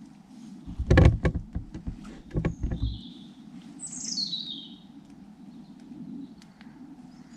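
Small woodland birds singing: a few short chirps and one falling trill about four seconds in. During the first few seconds, louder rustling and knocks come from the camera being handled and turned.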